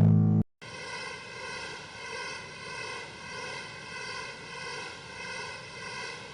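Designed sound effect: a loud low hum cuts off about half a second in, and after a short gap a steady synthetic whirring drone with many stacked tones starts, swelling and fading about every 0.6 seconds, much like a propeller.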